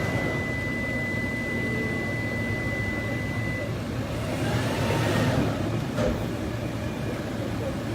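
Steady vehicle running noise heard from inside, most likely the 2018 Toyota Land Cruiser GXR's petrol V6 and road rumble. A thin steady tone stops a few seconds in, a brief swelling rush comes about five seconds in, and a single click follows about a second later.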